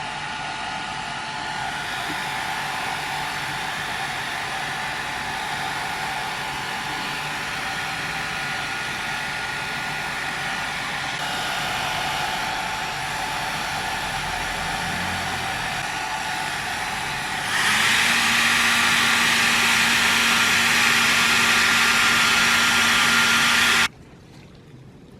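Hair dryer blowing steadily on a kitten's wet fur. It gets louder about two-thirds of the way through, then cuts off suddenly near the end.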